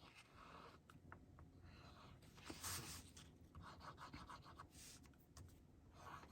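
Faint rustling and scraping of paper strips being handled on a craft table, in a few short scratchy patches, the loudest about two and a half seconds in.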